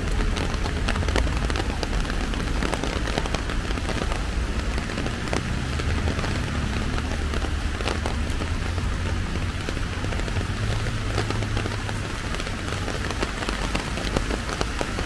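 Heavy rain of large drops hitting an umbrella overhead: a dense, irregular spatter of sharp taps over a steady hiss, with a low rumble underneath.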